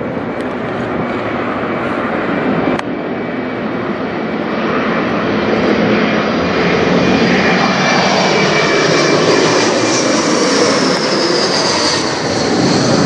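An Embraer E175 regional jet's twin turbofan engines, growing louder as it flies over on approach. A high whine slides down in pitch as it passes, about ten seconds in.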